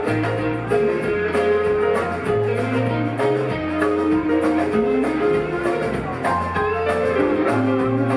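Live rock band playing an instrumental passage: electric guitar over bass, keys and a steady drum beat.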